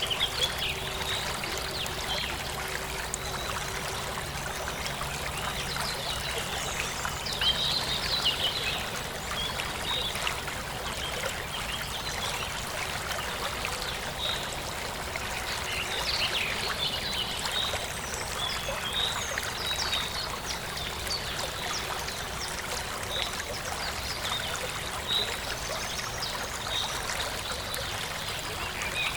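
Forest stream running steadily over rocks, with birds chirping on and off above the water, busiest in two stretches, one several seconds in and one about halfway through.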